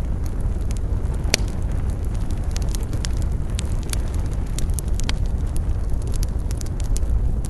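Campfire burning, with frequent wood crackles and pops over a steady low rumble; one sharper crack comes about a second and a half in.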